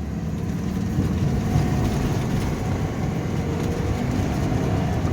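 Steady engine and road noise of a moving vehicle, heard from inside the cabin.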